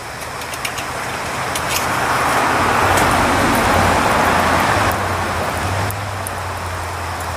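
Red-hot railroad-spike knife blade being quenched: a sizzling hiss that swells over about two seconds and then falls back in two steps past the middle, with small crackles. A steady low hum runs underneath.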